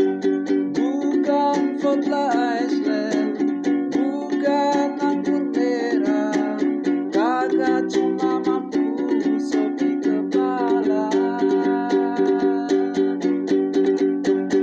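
Music: a small plucked string instrument strummed in a steady, quick rhythm, with a gliding melody line over it that stops about eleven seconds in, after which only the strumming goes on.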